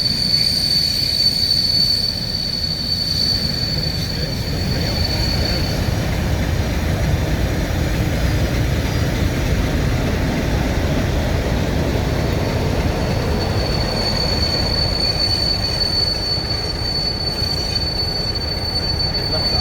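Railway wheels squealing against the rails as a train rolls slowly, a steady high-pitched squeal over the low rumble of the rolling stock; the squeal fades out about a third of the way in and comes back near two-thirds.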